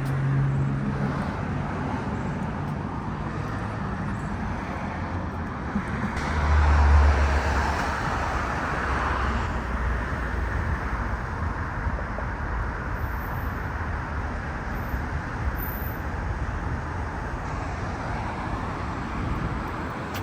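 City street traffic: cars running past steadily, with one vehicle passing close and rumbling loudest about seven seconds in.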